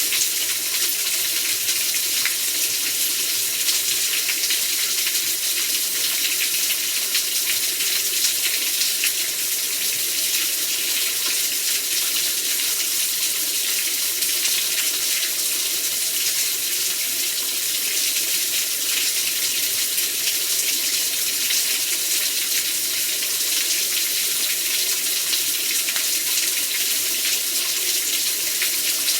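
Heavy rain pouring down, a dense, steady hiss of water that holds evenly without a break.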